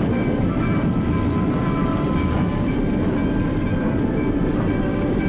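Steam-hauled passenger train rolling past, a steady heavy rumble of the cars on the rails.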